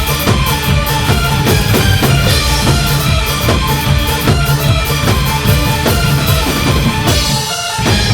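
Live band playing an electronic-rock arrangement, instrumental with no vocals: drum kit keeping a steady beat under bass, guitar and synth. Near the end the bass and drums cut out briefly under a rising hiss before the full band comes back in.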